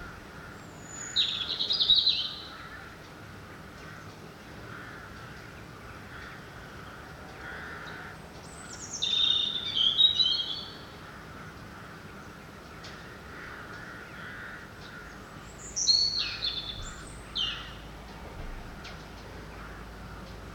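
A songbird singing three loud phrases, each about two seconds of quick, high, falling notes, spaced about seven seconds apart. Crows caw faintly in the distance.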